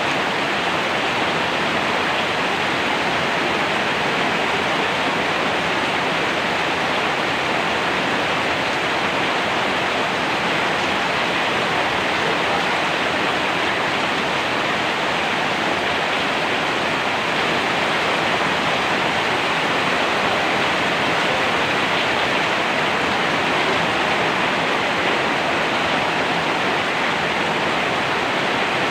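Steady heavy rain, an even hiss with no breaks or single drops standing out.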